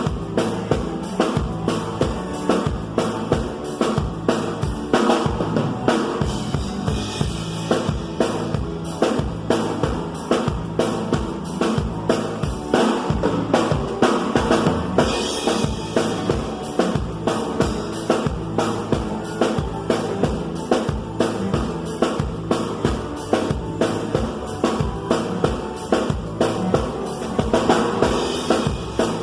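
Band music with a drum kit keeping a steady, driving beat of bass drum and snare over bass and other pitched instruments.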